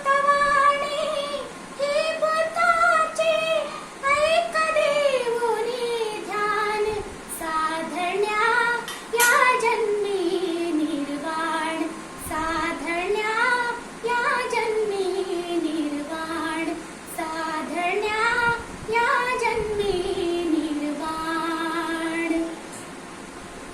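A young girl singing a Marathi Buddhist devotional song solo and unaccompanied, in long melismatic phrases with wavering held notes. The singing stops near the end.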